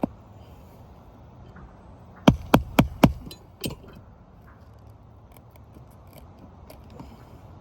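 Four quick sharp metal taps, about four a second, then a fifth a moment later, as a thin flat nail-removal tool is worked under an asphalt roof shingle to get at the nail heads.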